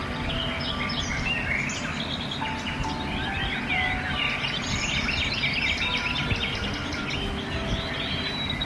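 A dense chorus of many birds chirping and trilling at once, calls overlapping throughout, over a steady low background rumble.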